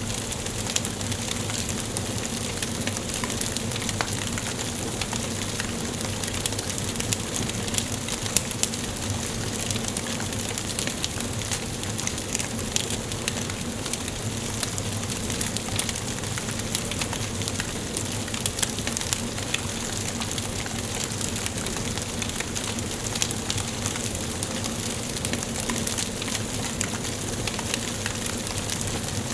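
Wood fire burning in a fireplace: a steady hiss with many small crackles and pops scattered irregularly throughout, a few of them sharper.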